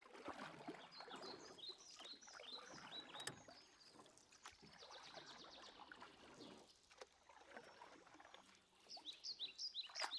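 Faint birdsong: rapid runs of short, high chirps in the first three seconds and again near the end, over a faint hiss.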